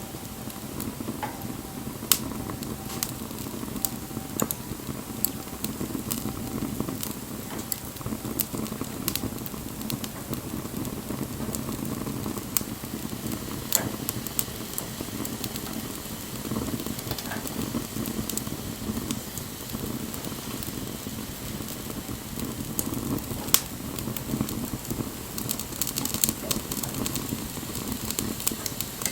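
Wood fire burning: a steady low rush of flames with scattered crackles and a few louder sharp pops from the burning wood.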